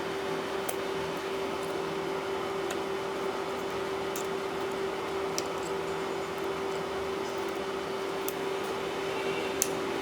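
Steady mechanical hum holding one constant tone, with a few faint light clicks scattered through it.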